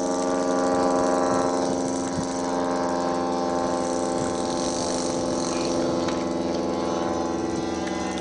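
Small model-airplane engine running steadily at a fairly constant pitch.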